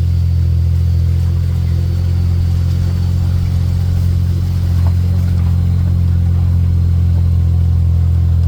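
Tour vehicle's engine running steadily at low speed, a constant low hum.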